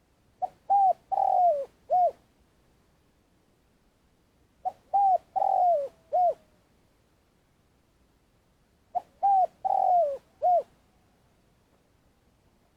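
Spotted dove cooing: three phrases, each of four short hoots, one every four seconds or so. It is the long calling song of a decoy bird.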